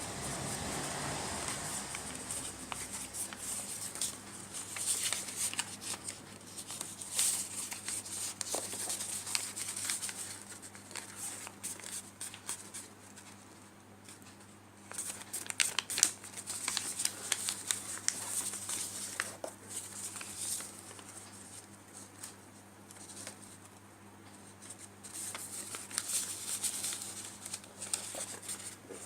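Sheet of paper rustling and crinkling in the hands as it is folded and creased into an origami crane, coming and going with short quieter gaps.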